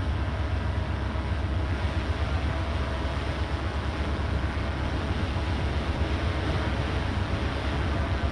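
Steady low diesel engine rumble with a drone of several held tones and no breaks.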